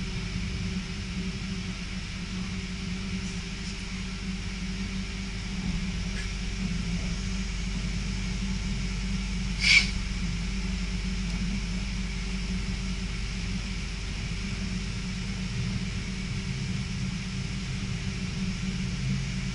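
Passenger train running on the rails, heard from inside the carriage: a steady low rumble with a faint steady hum, and one brief sharp high-pitched noise about ten seconds in.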